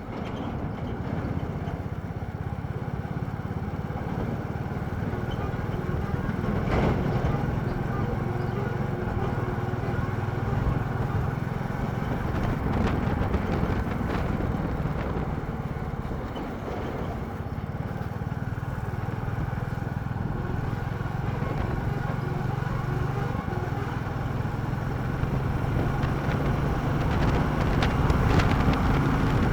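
Royal Enfield Classic 350's single-cylinder engine running steadily as the motorcycle is ridden, with a few brief clicks and the level swelling slightly near the end.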